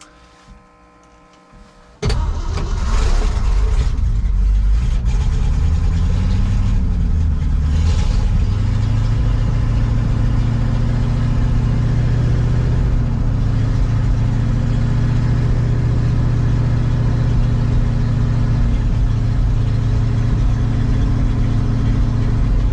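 A 1966 Ford truck V8 catches suddenly about two seconds in on a choked cold start, after sitting a couple of months in sub-zero weather. It runs up and down in speed for a few seconds, then holds a steady fast run.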